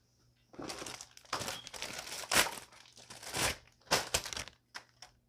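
Plastic packaging crinkling and rustling as a new vacuum attachment is unwrapped. It starts about half a second in and runs as a string of rustles with a few sharper crackles, stopping just before the end.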